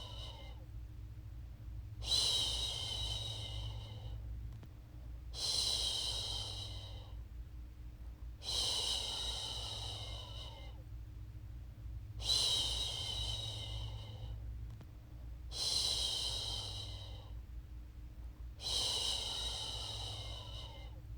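A woman's voice making long "shhh" shushing sounds to soothe a baby to sleep, six times, about every three and a half seconds, each one fading out before a short pause.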